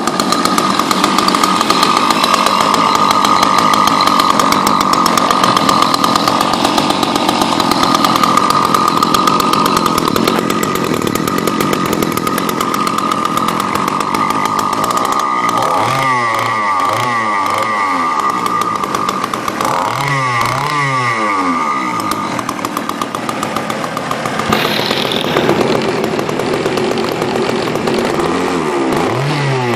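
Small two-stroke gasoline engine of an RC boat running at high revs while its carburettor is being tuned. In the second half the revs drop and pick up again several times.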